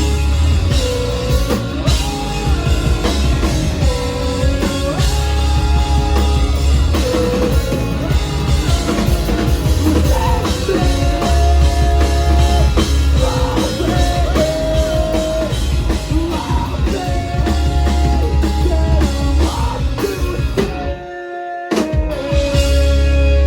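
Live rock band playing: drum kit, bass and electric guitar, with a melodic lead line sliding between notes. Near the end the band thins out for a moment, then comes back in on a held note.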